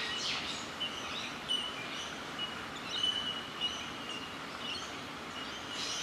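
Steady outdoor background hiss with short, thin, high bird notes repeating on and off through it.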